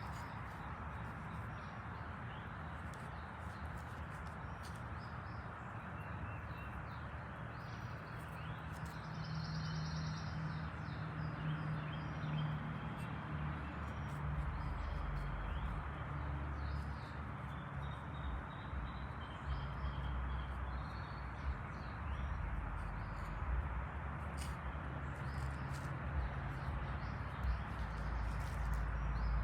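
Outdoor background hiss with a few faint bird chirps; a low rumble comes in about halfway through and continues.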